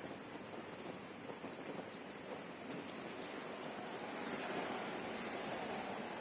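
Steady rain falling: an even hiss with a dense patter of drops, growing a little louder about four seconds in.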